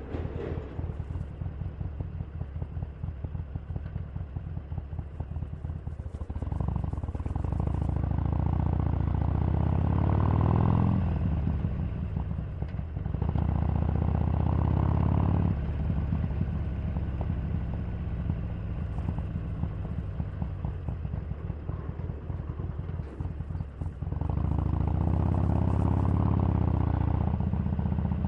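Harley-Davidson Sportster 883's air-cooled V-twin running on the move. It pulls up in pitch under throttle three times, about a quarter, half and most of the way through, and drops back to a lower, steady run in between.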